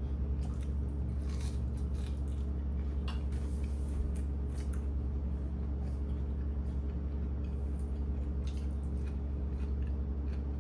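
Kitchen food preparation: soft squishing handling sounds and scattered light clicks, over a steady low hum.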